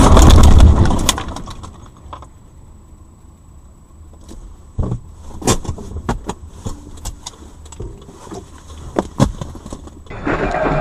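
Car driving, heard from inside through a dash cam: a low road rumble with scattered sharp clicks and taps. A louder sound dies away in the first two seconds, and another loud steady sound starts near the end.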